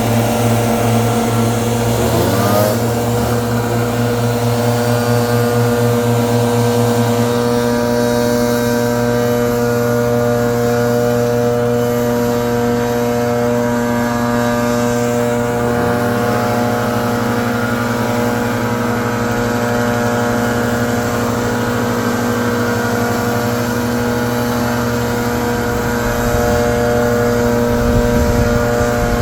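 Leaf blower running steadily at a loud, constant pitch, with brief changes in pitch about two and a half seconds in and again around sixteen seconds.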